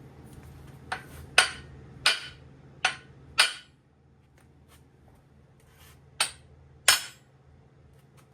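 Sharp knocks of a tool on metal engine parts, seven in all: five in quick succession in the first few seconds, then two more near the end, each with a short ring.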